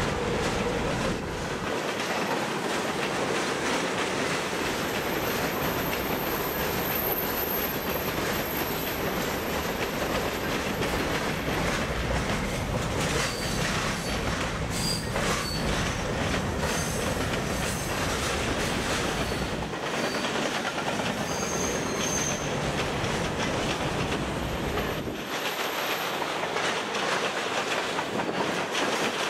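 Freight cars rolling past on steel wheels, clattering over the rail joints in a steady rhythm. A thin, high-pitched wheel squeal rises about five seconds in and lasts a few seconds, then comes back briefly near the end.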